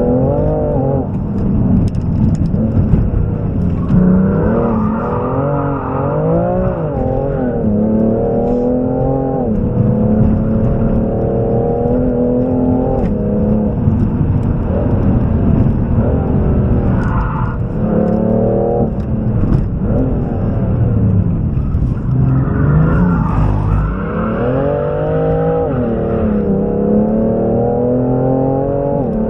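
Four-door performance car's engine heard from inside the cabin, driven hard: the engine note repeatedly climbs under acceleration, then drops sharply at gear changes and lifts off for corners.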